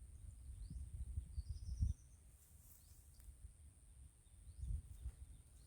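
Outdoor ambience: small birds chirping, with a short chirped trill about a second and a half in. Underneath are a low rumble of wind or handling on the microphone, louder in bumps, and a steady high-pitched hum.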